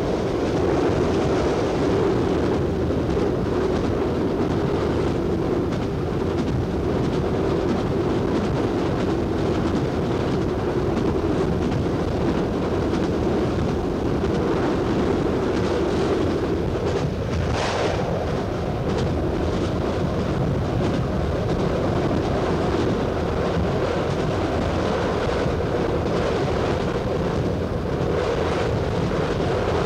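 Diesel train running at speed, heard from the driver's cab: a steady rumble of engine and wheels on rail, with a brief sharper burst of noise a little over halfway through.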